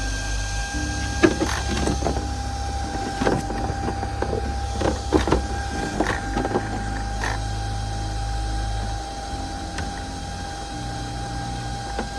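Irregular clicks and knocks from handling an RC car while its battery pack is fitted, most of them in the first seven seconds or so, over a steady low hum and a constant thin whine.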